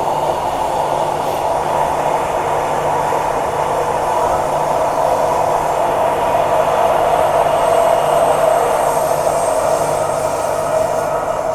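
Transperth A-series electric multiple unit running at speed, heard from inside the carriage: a steady rush and rumble of wheels on track over a low motor hum, growing a little louder about eight seconds in.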